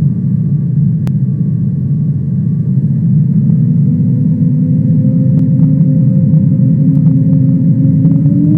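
Aircraft engines running with a steady low rumble and a steady whine. The whine starts to rise in pitch near the end as the engines power up.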